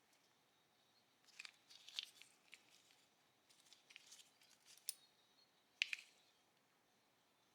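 Faint, scattered clicks and short scrapes of hand work on a Walther P38 pistol's parts, the sharpest click just before six seconds in.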